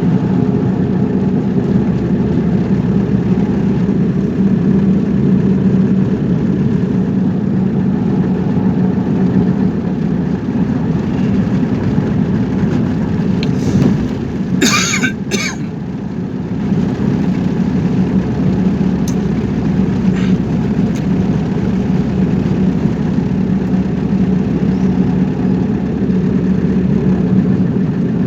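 A car engine and road noise running steadily, with a short sharp noise about halfway through.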